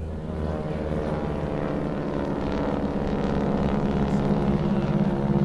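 Propeller-driven aircraft flying overhead: a steady drone of engine and propeller tones, growing gradually louder as it comes closer.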